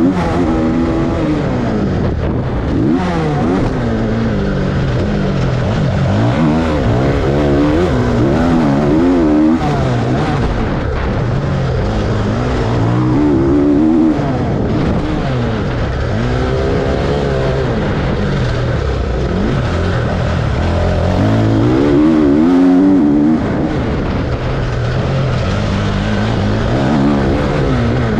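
Several motocross dirt bike engines revving up and down, their pitches rising and falling over one another as the bikes accelerate and shift.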